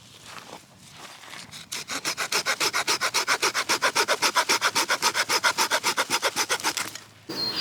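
Hand saw cutting through a piece of wood, starting with a few tentative strokes and then running in quick, even back-and-forth strokes before stopping suddenly near the end.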